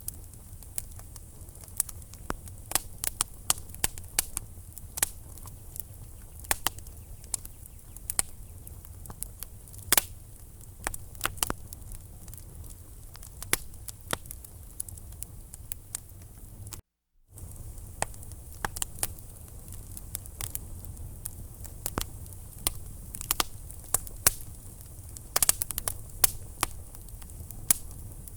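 Wood fire crackling in a fireplace: irregular sharp pops and snaps of burning logs, several a second, over a steady low rumble of flame. The sound cuts out completely for a moment a little after halfway.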